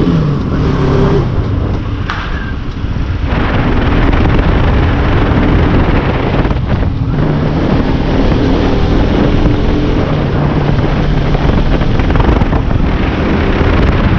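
Wind buffeting the microphone over the steady running of a vehicle engine while on the move, with a slight drop in loudness about two seconds in.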